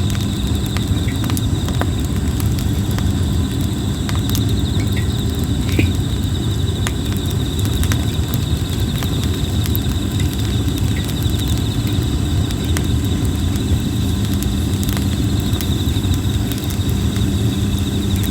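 Red plum wood burning in a campfire, crackling with scattered sharp pops over a low steady rumble. Insects chirp steadily and high in the background.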